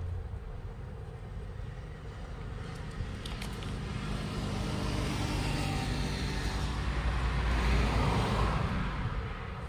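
Road vehicle passing by, its noise swelling to a peak near the end and then fading.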